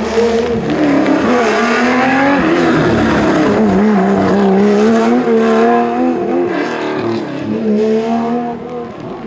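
Historic rally car engine at high revs, its pitch climbing and dropping several times with throttle and gear changes, then easing off near the end.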